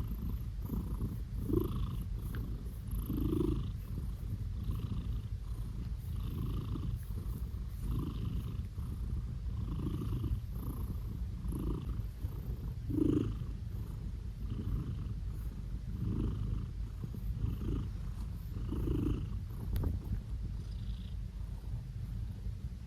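Blue British Shorthair cat purring steadily while being petted. The purr swells with each breath, about every one and a half seconds.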